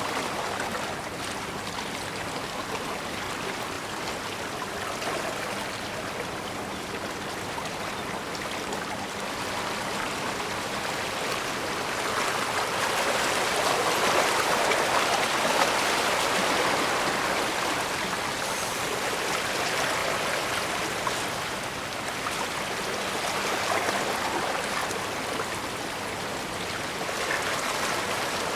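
Bay water washing and rushing in a steady wash, swelling louder for a few seconds around the middle.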